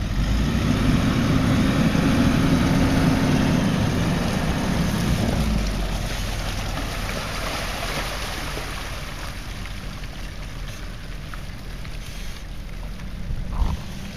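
Land Rover Discovery 3 engine pulling under load as the stuck vehicle is towed through deep muddy ruts, a steady engine drone for the first five or so seconds that then fades away as the vehicles move off. Wind noise on the microphone, and a brief bump near the end.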